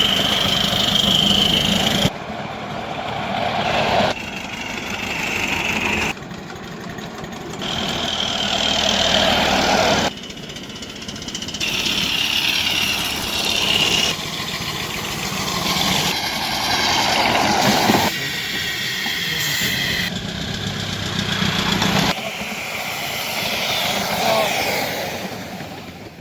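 A run of short clips of miniature live-steam locomotives at work on a model railway track, cut together so the sound changes abruptly about every two seconds, with some voices in places.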